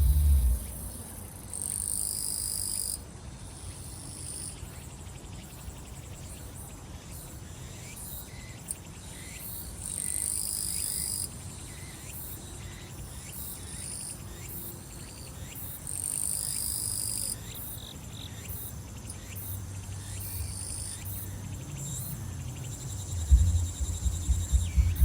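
Summer grass insects and cicadas singing in a steady high-pitched chorus. A louder buzzing phrase of about a second and a half comes three times, roughly every six to seven seconds, over scattered short chirps. Bass thumps of nearby music come in near the end.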